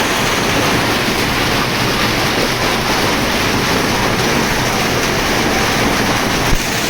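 Heavy rain pouring steadily, a dense, even hiss, with one brief thump near the end.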